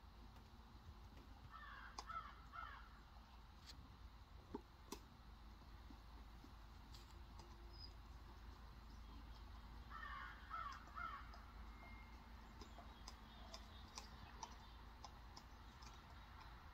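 Near-quiet outdoors with faint bird calls: a short run of three or four calls about two seconds in and another about ten seconds in. A few faint clicks are scattered between them.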